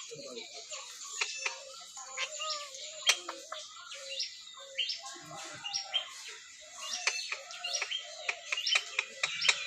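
Parrot chirping: a rapid run of short chirps and quick downward-sweeping calls, several a second, busiest near the end.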